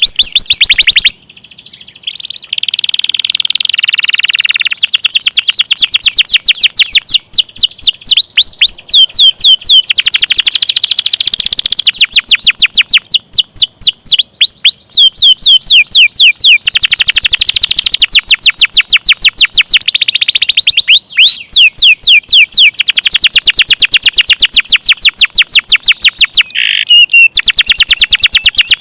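Domestic canary singing long rolling trills: very fast strings of high, repeated notes, loud and nearly continuous, with a brief pause about a second in.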